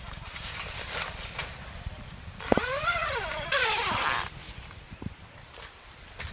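Synthetic tent fabric rustling as the canopy is handled and fitted over the gazebo frame. About halfway through there are two loud rasping pulls. The first rises and then falls in pitch, and the second is shorter and steadier.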